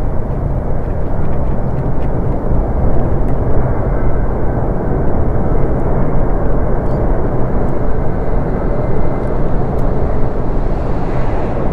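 A very loud, weird steady rumbling noise from the sky. It set in abruptly and holds level without pause.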